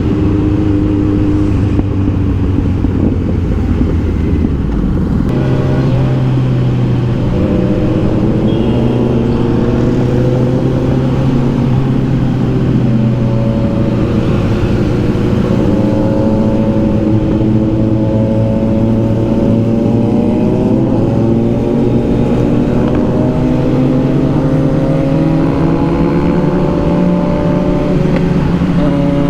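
Kawasaki Z900's inline-four engine and exhaust under way on the ride, the pitch stepping up about five seconds in and then climbing steadily through the middle as the bike accelerates.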